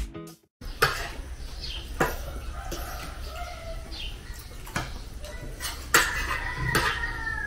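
Faint bird calls over a steady low hum, with a few light knocks; a longer, slightly falling call comes near the end.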